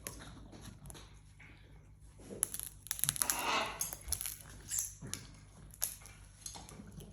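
Parrot playing with a feather: small crinkling rustles and sharp clicks, with a short noisy burst about three seconds in.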